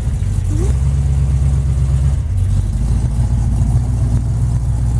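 Truck engine running steadily at low speed, a deep drone that shifts slightly in pitch about two seconds in.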